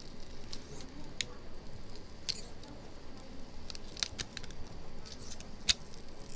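A few sharp, isolated clicks over faint handling noise as a small knife is worked under the polarizer film of a phone LCD to lift it off.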